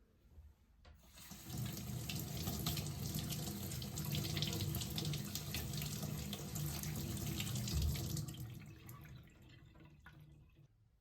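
Kitchen tap running into a sink. The water comes on about a second in, runs steadily for about seven seconds, then tapers off and stops near the end.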